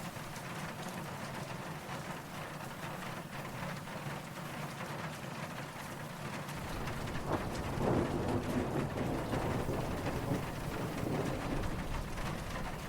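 Steady rain falling, with low, distant thunder rumbling in about halfway through and swelling to its loudest a little later.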